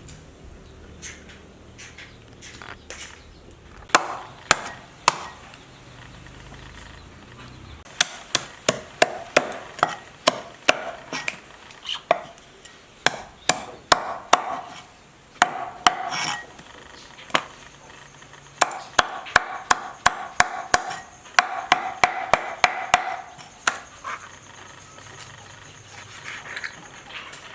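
Knife chopping on a wooden cutting board: three strokes about four seconds in, then runs of quick, sharp chops with short pauses between them.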